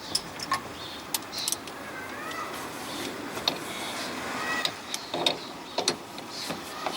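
Scattered metallic clicks and knocks of hand tools and a suspension bolt being fitted by hand, with a faint wavering squeak in the middle.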